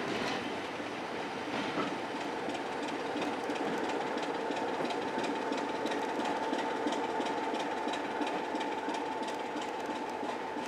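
Train running slowly, heard from an open coach window: steady rolling noise from the wheels on the rails with many small clicks, and a steady whine that comes in a few seconds in.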